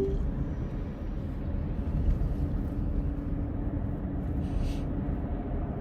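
Steady low road and engine rumble heard inside the cabin of a moving car, with a faint steady hum joining in about two seconds in.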